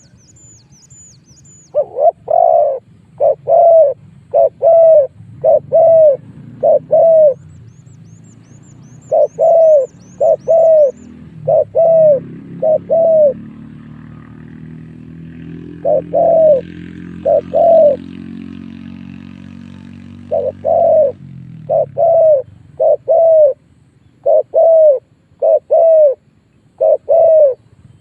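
Spotted dove cooing loudly in repeated phrases of several coo notes with short pauses between them. There are brief thin high chirps from a small bird near the start and again about eight seconds in, and a low steady drone underneath in the middle.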